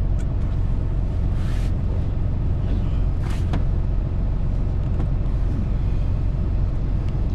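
Semi truck's diesel engine idling with a steady low rumble, with two short hissing bursts, one about a second and a half in and another about three seconds in.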